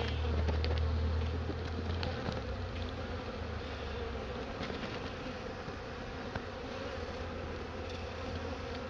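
Honeybee swarm buzzing steadily around a hive box. A low rumble fades over the first two seconds, and a few faint ticks come through.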